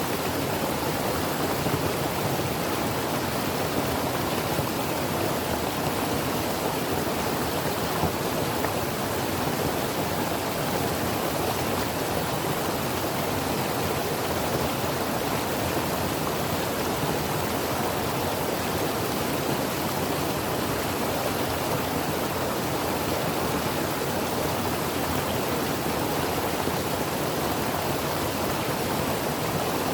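Creek water flowing steadily over rocks: an even, unbroken rushing.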